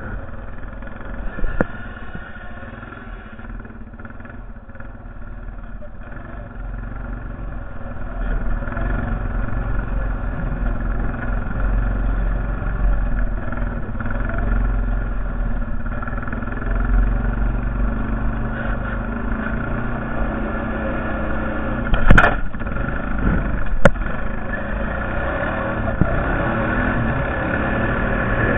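Honda Foreman 450 ES ATV's single-cylinder four-stroke engine running, growing louder about eight seconds in. Near the end come two sharp knocks about two seconds apart.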